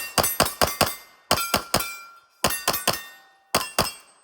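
Semi-automatic pistol firing rapid strings of shots, about sixteen in four quick groups of two to five, with a brief ringing after several shots.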